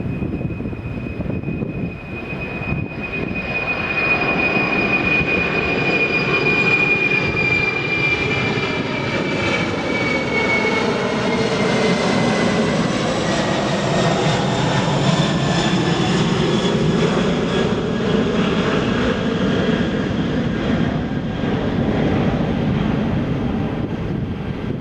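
Jet airliner passing close by, its engine noise swelling after a few seconds and holding loud, with a high whine that falls in pitch as it goes past.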